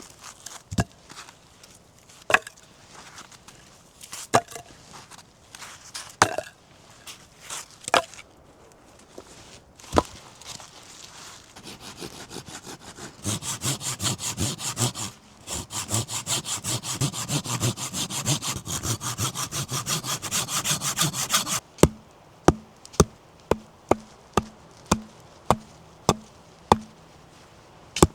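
Woodworking by hand: sharp wooden knocks about every two seconds, then a hand saw cutting through wood in quick, even strokes for about eight seconds, then a run of sharp chops or taps about two a second.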